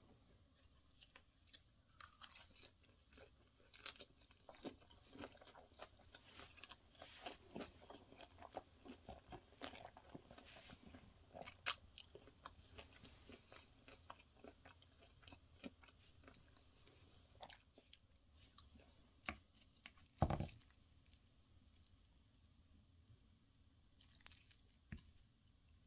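Quiet close-up chewing and crunching of a mouthful, a perilla-leaf wrap of spicy stir-fried octopus and rice, with many small crackly clicks. One louder knock comes about 20 seconds in, and near the end a wooden spoon scrapes into a bowl of fried rice.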